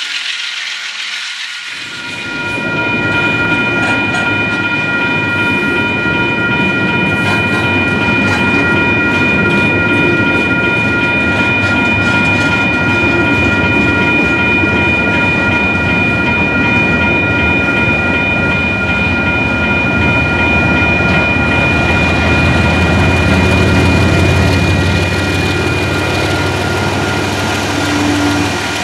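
Double-stack container train rolling slowly past with steady rail and wheel noise, under a steady high ringing from the grade-crossing warning bell. The mid-train CSX diesel locomotive's engine grows louder near the end as it comes alongside.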